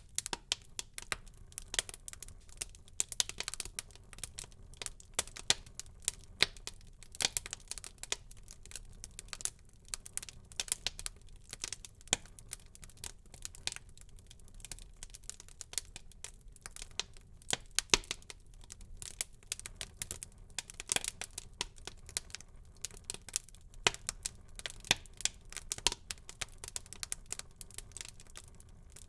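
Wood fire burning in a fireplace, crackling with a constant, irregular run of small pops and snaps, a few of them sharper and louder than the rest.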